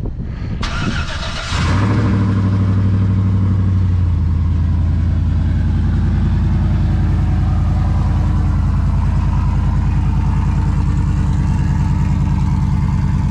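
Truck engine cold-started through open long-tube headers with straight-out dumps and no muffler. The starter cranks briefly, the engine catches about a second and a half in, and it settles into a steady idle that drops slightly in pitch a couple of seconds later.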